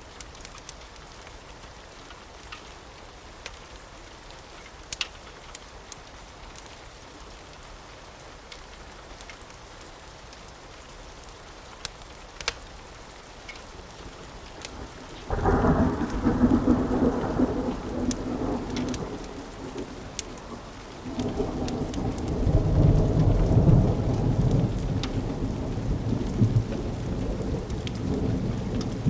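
Steady rain with scattered sharp pops. About halfway in, thunder breaks in suddenly with a loud low rumble, eases briefly, then rolls on louder to the end.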